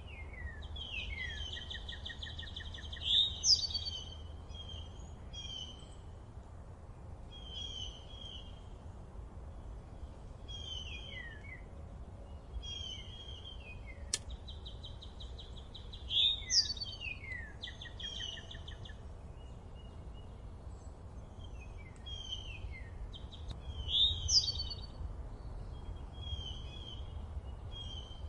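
Forest birdsong: short falling chirps repeat every second or so, and three times, about every ten seconds, a rapid trill runs into the loudest notes, all over a faint low rumble.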